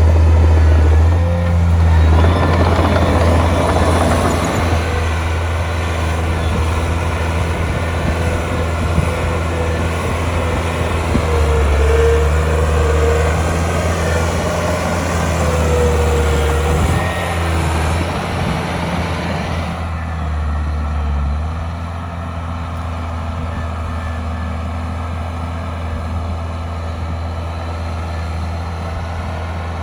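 Heavy earthmoving machine's diesel engine running, its low drone rising and falling. A harsher, noisier stretch gives way to a smoother, quieter run about twenty seconds in.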